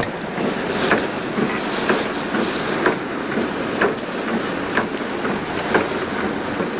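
Road and engine noise inside a small bus on the move, with a short regular knock about once a second.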